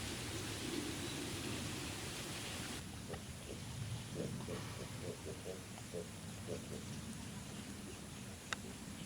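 Pig grunting in a run of short, low grunts, following a steady hiss that cuts off about three seconds in; a sharp click near the end.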